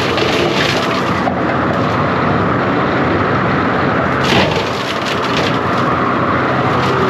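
John Deere 333G compact track loader's diesel engine running hard while its saw or brush-cutter attachment cuts through brush and limbs. Wood cracks and snaps now and then, sharply about four seconds in.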